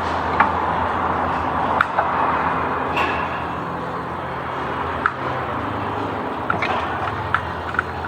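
Scattered small clicks and knocks, about seven in all, of hands and tools working a plastic electrical connector on an ABS pump in a car's engine bay. They sit over a steady background hum.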